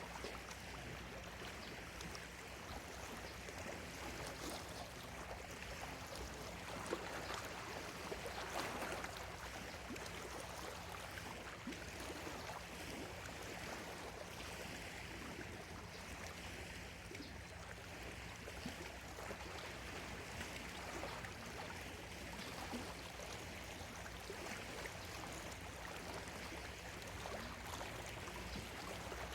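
Small lake waves lapping on the shore, a steady wash of water that swells a little louder for a couple of seconds about a quarter of the way in.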